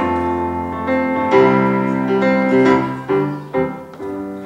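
Piano playing a slow song introduction: sustained chords, with a new chord or note struck every half second or so.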